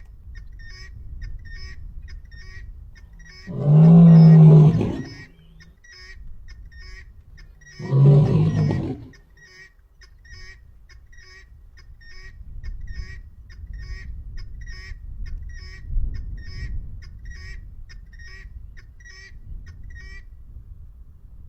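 Male lion roaring: two long, deep roars about four seconds apart, followed by fainter low rumbling. A faint high chirp repeats about twice a second underneath.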